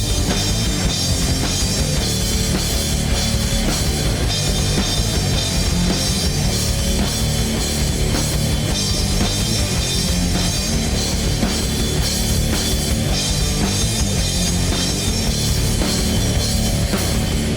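Rock band playing a loud instrumental passage on drum kit, bass and distorted electric guitars. The full band comes in together at the start.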